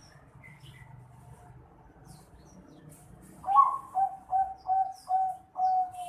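Juvenile zebra dove (a Bangkok-strain perkutut about four and a half months old) cooing. About halfway in it gives a quick run of six short coos, roughly two to three a second; the first coo starts on a higher note.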